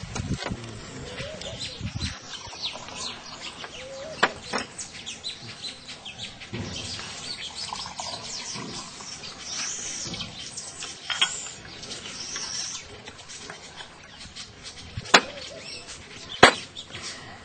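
Small birds chirping and twittering over faint background murmur, with two sharp clicks near the end.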